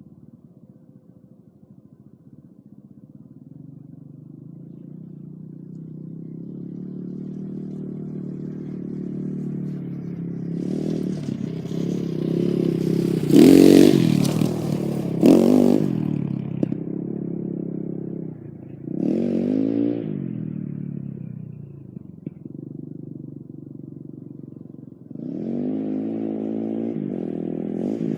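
A 230 cc four-stroke dirt bike engine (2013 MXR 230 KZR) running, growing steadily louder as it comes closer over the first dozen seconds. It is then revved up hard a couple of times near the middle, with sharp loud noise at the peaks, again about two-thirds through, and once more near the end.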